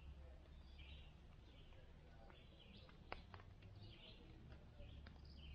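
Small birds chirping faintly, short calls repeating every half-second or so, with a few sharp clicks about three seconds in over a low steady hum.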